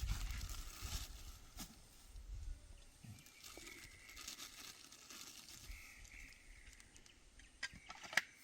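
Faint outdoor ambience with a few short, light clicks and knocks.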